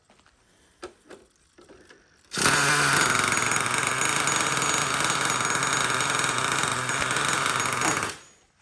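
Ezy Start electric starter spinning the Revo's TRX 3.3 two-stroke nitro engine, starting about two seconds in and running steadily for about five and a half seconds before stopping. The engine does not settle into a run: the owner suspects it is getting too much fuel and needs a tune.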